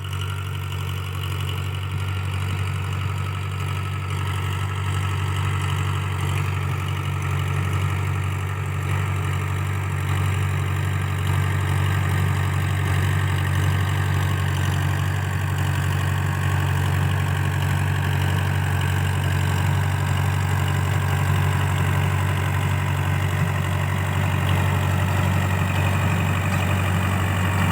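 Powertrac 4×4 tractor's diesel engine running steadily while driving a rotavator.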